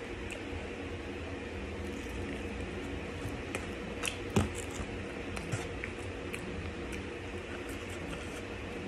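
A person bites into a sauced fried chicken tender and chews, with a sharp bite about four seconds in followed by a short run of chewing clicks and smacks. A steady low background hiss runs underneath.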